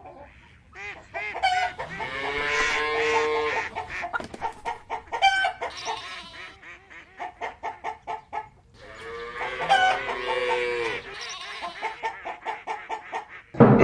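Rooster crowing twice, long drawn-out calls about two seconds in and again about nine seconds in, with chickens clucking in short repeated calls between them.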